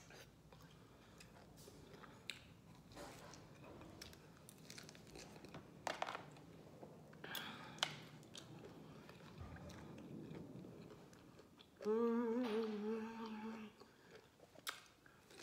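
Close-up wet mouth sounds of biting and chewing lemon wedges, with scattered short smacks and clicks. Near the end a woman hums a wavering "mm" for about two seconds.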